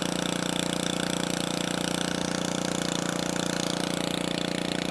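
Small engine-driven water pump running steadily at an even speed, drawing creek water through its pickup hose into the tote.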